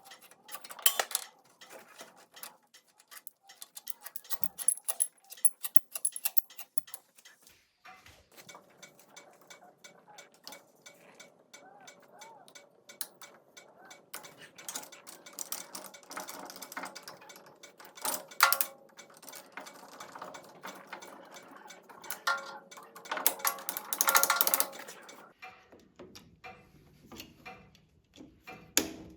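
Scattered clicks and light metal clinks of hand tools and metal parts being handled during repair work, with louder clusters of clinks a little past the middle and again near 24 seconds.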